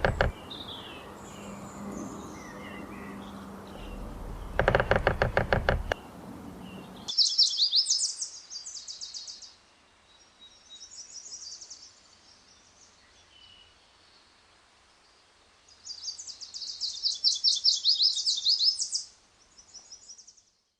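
Two bursts of rapid knocking, each about a second and a half long, with faint bird chirps between them. Then, after about seven seconds, a small songbird sings high, fast trills in four short phrases.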